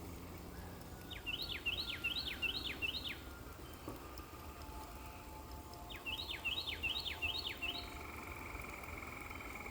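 A songbird singing two phrases of about five quick, downward-slurred whistled notes each, with a steadier held whistle near the end. Underneath is a constant soft hiss of light spring rain.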